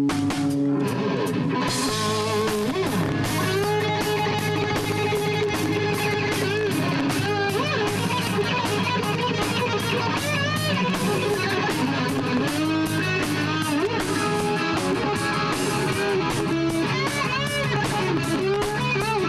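Rock band playing live: electric guitar lead with bent notes over bass and a steady drum beat.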